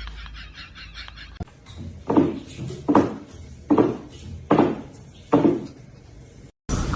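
A series of five knocks, about one every three-quarters of a second, each sharp and quickly dying away.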